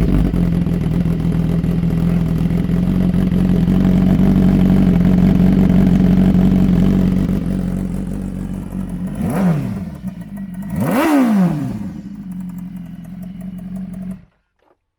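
2015 BMW S1000RR inline-four with an SC Project CRT slip-on exhaust, idling loudly just after startup. It is blipped twice, about nine and eleven seconds in, then switched off suddenly near the end.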